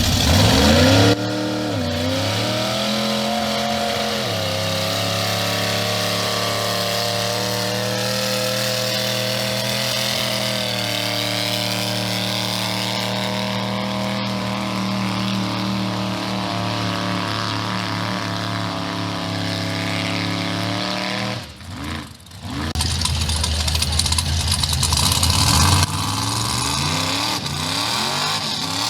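A vehicle engine running at a steady speed, with a brief dip and rise in pitch in the first few seconds. After about twenty-one seconds it drops away for a moment, then revs up with rising pitch, and rises again near the end.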